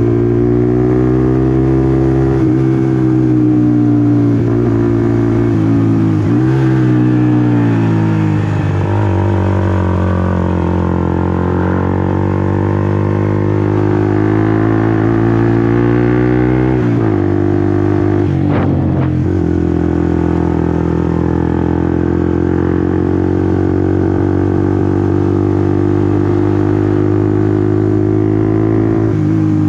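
Honda CBR150R's single-cylinder four-stroke engine running under way, its pitch shifting up and down several times with throttle and gear changes. A brief sharp sound cuts through a little past the middle.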